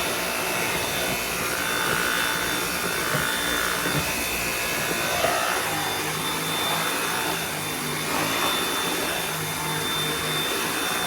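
Dyson V8 cordless stick vacuum running steadily, its motor giving a constant high whine while the airflow noise shifts as it is worked over the floor.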